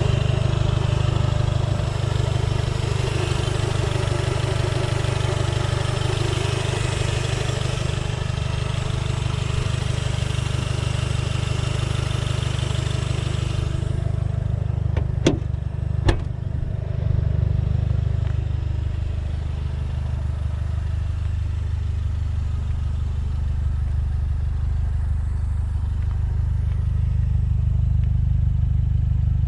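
Alfa Romeo 159 1750 TBi turbocharged four-cylinder idling steadily, heard first with the bonnet open. About 14 s in the bonnet is lowered and the engine goes duller, and two sharp knocks a second apart follow as it is shut. Then the idle is heard as a low steady hum from the custom exhaust.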